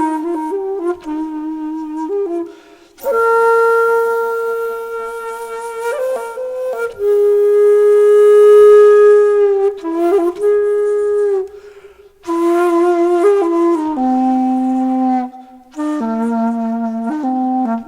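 Slow solo melody on a flute-like wind instrument, long held notes with short breaths between phrases.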